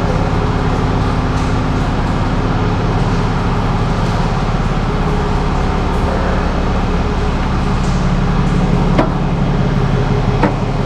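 Tow truck's engine running steadily, with a couple of sharp clicks near the end.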